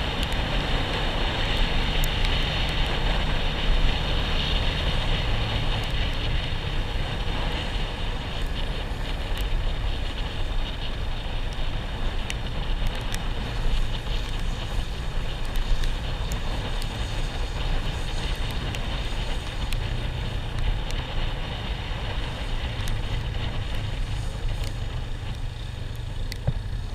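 A vehicle engine running steadily while on the move, with wind rushing over the microphone.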